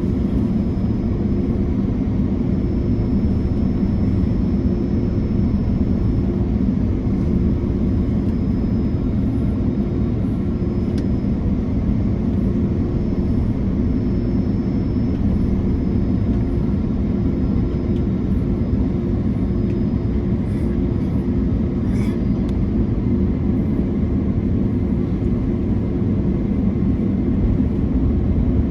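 Cabin noise inside an Airbus A330-300 airliner descending: a steady roar of airflow and Rolls-Royce Trent 700 engines with a constant low hum.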